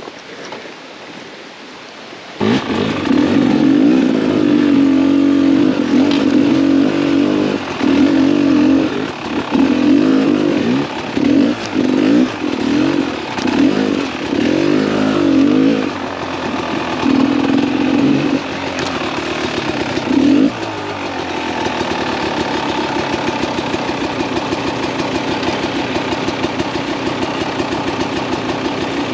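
Beta 300 RR two-stroke enduro motorcycle engine starting suddenly a couple of seconds in, then revved in repeated blips of the throttle before settling to a steady idle for the last several seconds.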